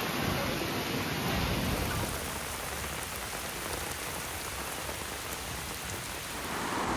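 Heavy rain pouring down: a dense, steady hiss of drops on hard surfaces, with a low rumble under it for the first couple of seconds.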